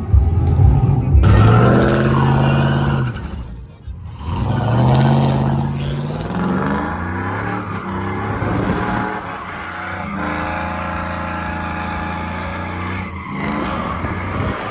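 Truck engine revving hard in repeated rising pulls, then held at high revs, over the hiss and squeal of spinning tires: a burnout.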